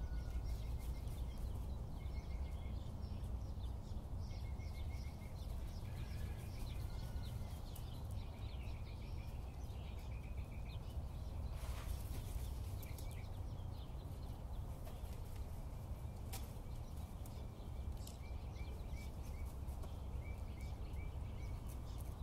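Outdoor ambience: a steady low rumble with small birds chirping and giving short repeated trills on and off, and a sharp click about twelve seconds in.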